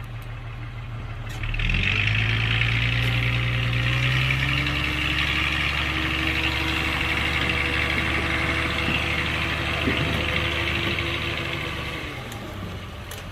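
Heavy diesel engine of earthmoving machinery running, stepping up from idle to a steady higher working speed about a second and a half in and easing back down near the end.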